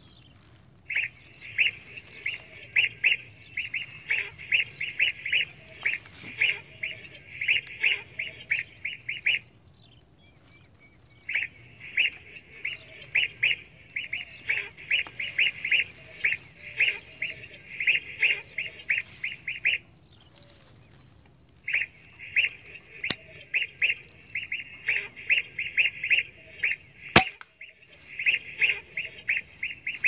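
A bird calling in three long runs of rapid, repeated honking notes, about three notes a second, with short pauses between the runs. A single sharp click cuts in near the end.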